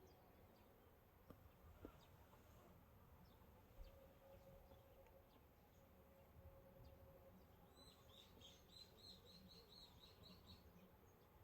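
Faint outdoor quiet with a few soft clicks, then a small bird singing about eight seconds in: a rapid run of about a dozen repeated high chirps lasting roughly three seconds.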